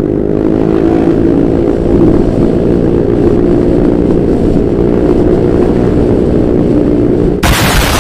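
Honda Vario 125 scooter's single-cylinder engine running at a steady speed through a Pro Liner racing exhaust, loud with a low drone. Near the end it gives way to a loud hiss.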